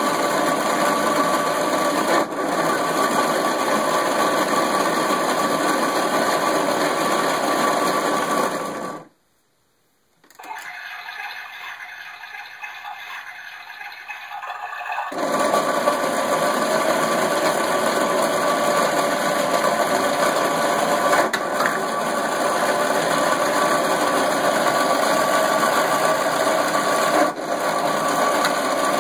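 Circuit-bent toy washing machine's sound chip pushed into a harsh, fast-looping electronic buzz and rattle with a few held tones. It cuts out for about a second about nine seconds in and comes back thinner and quieter. About fifteen seconds in it returns at full strength.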